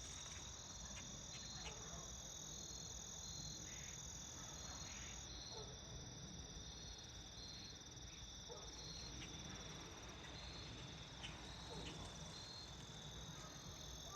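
Evening insect chorus: a steady high trill with a pulsing note repeating about once a second, with faint brief sounds scattered through it.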